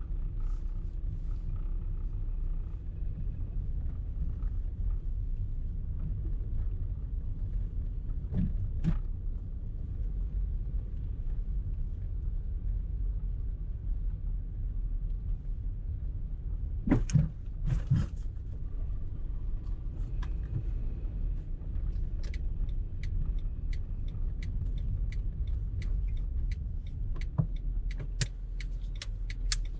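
Car cabin while driving: a steady low rumble of road and engine noise. Two sharp knocks come just past the middle, and in the last third a regular ticking sets in at about one and a half ticks a second.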